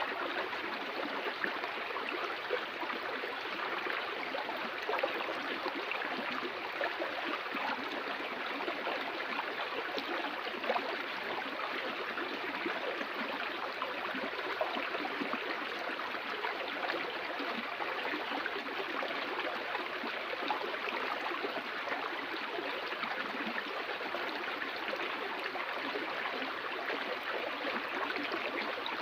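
Flowing stream water, a steady rush with small irregular splashes and gurgles.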